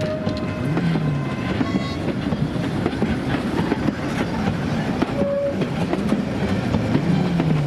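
Corpet-Louvet 040T steam locomotive running with its train on metre-gauge track, a steady loud rumble with wheels clicking over the rails.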